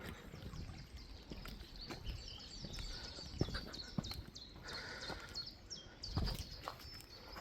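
Small songbirds singing in repeated short, high, down-slurred chirps, with a few footfalls on the path.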